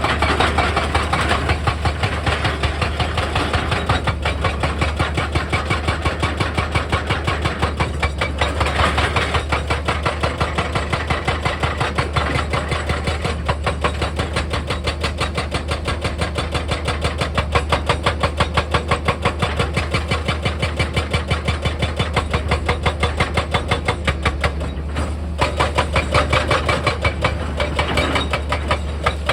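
Heavy diesel machinery running under load, a steady low engine drone with a fast, even hammering rhythm on top, easing briefly about 25 seconds in.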